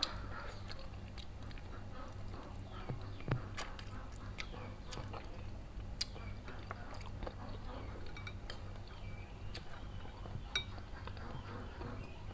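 Close-up mouth sounds of a person chewing and sucking on soft-boned spicy chicken feet: wet smacks and scattered sharp clicks at irregular moments, over a steady low hum.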